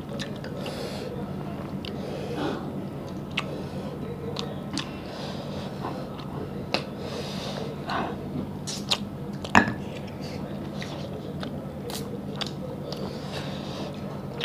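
Close-miked chewing and wet mouth sounds of people eating mutton curry and rice by hand, with scattered sharp smacks and clicks. The loudest smack comes about two-thirds of the way through.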